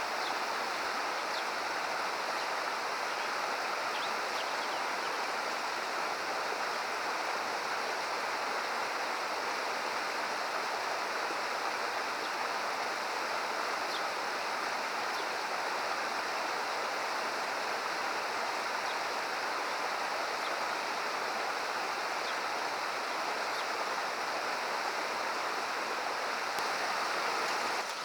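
Steady rushing of a mountain stream flowing over rocks in a gorge.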